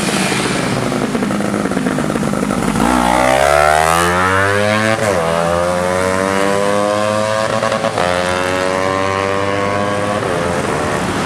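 Honda CBR250RR engine running at a steady low note, then pulling away with rising revs about three seconds in, dipping briefly near the middle as it shifts, then climbing slowly and levelling off as if held back, during a run with its MBRtech pit limiter engaged.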